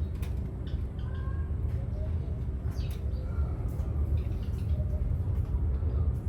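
Parrots making scattered short chirps and squeaks over a steady low rumble.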